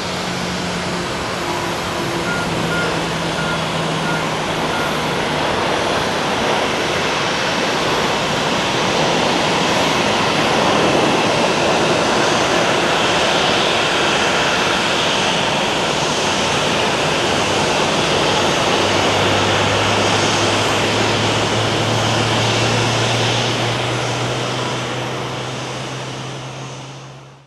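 Airbus A320-214 with CFM56 turbofans landing in rain: a steady rush of jet engine noise mixed with rain hiss. The sound swells after several seconds, a low engine hum comes in about two-thirds of the way through, and the sound fades out at the end.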